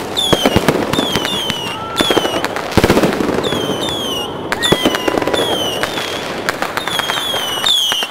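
Fireworks going off in a dense volley: many sharp bangs and crackles, with a string of short, high whistles that fall in pitch, repeating several times a second.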